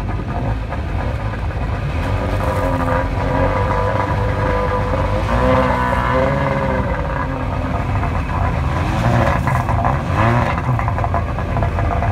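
1999 Sea-Doo Speedster jet boat engines running through a side exhaust, idling with three blips of the throttle that raise the pitch and let it fall back.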